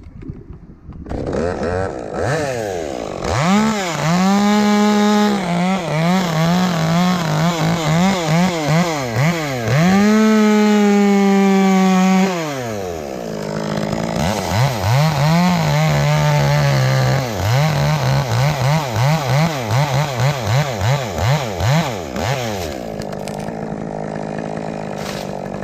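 Chainsaw cutting through the top of a dead, rotten tree: engine held near full throttle with repeated dips as it loads up in the wood. It drops back about twelve seconds in, then revs again in quick pulses before settling to a lower, steadier note near the end.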